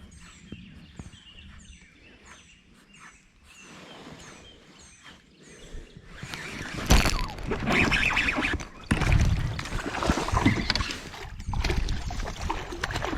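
A small bird repeats short, faint, high chirps about twice a second. From about seven seconds in, loud close-up knocking and rustling noise from movement in and around a kayak takes over, with sharp knocks.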